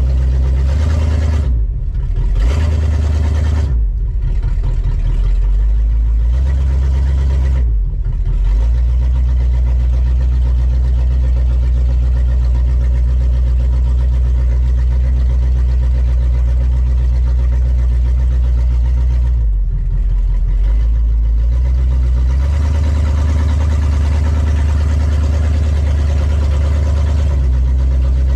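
1971 Chevrolet Chevelle wagon's engine running while the car is driven slowly. The engine note drops and picks back up several times in the first eight seconds and once more about twenty seconds in, then runs steadily.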